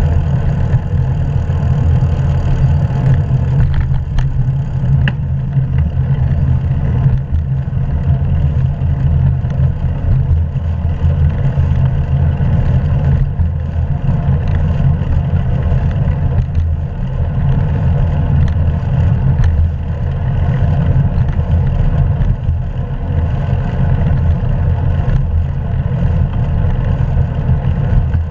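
Steady low rumble of wind and road noise from riding a bicycle, picked up by a GoPro action camera's microphone, with a few faint ticks.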